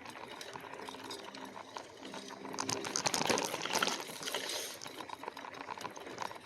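A bike being ridden over a rough trail: a steady jumble of small rattles and clicks with sloshing, typical of ice and water jostling in a bottle on the bike. It is busiest about halfway through.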